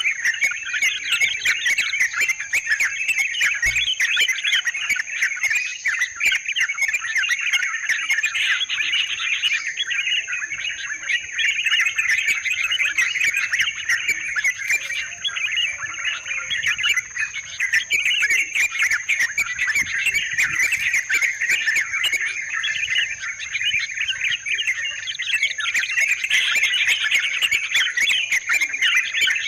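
Yellow-vented bulbuls (trucukan/cerukcuk) calling in a dense, continuous chorus of bubbly chattering notes, played as a trapping lure call. A steady thin high tone runs behind the calls.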